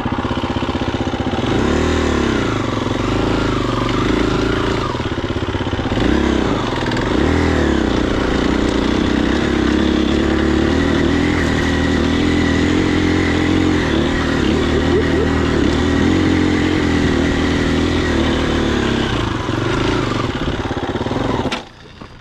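Husqvarna FE250 single-cylinder four-stroke dirt bike engine running under way. Its pitch rises and falls with the throttle several times in the first eight seconds, then it holds steadier. The sound cuts off abruptly near the end.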